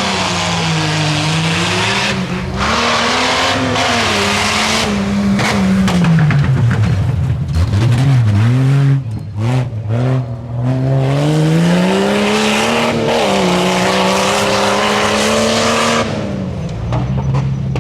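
Off-road tuff truck's engine revving hard through the course, its pitch rising and falling with the throttle, stuttering on and off briefly midway. It then climbs steadily and drops back to a lower, steadier note near the end.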